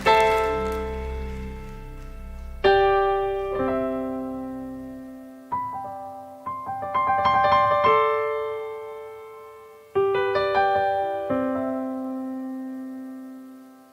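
Solo piano playing slow chords, each struck and left to ring and fade, with a flurry of quicker notes about seven seconds in.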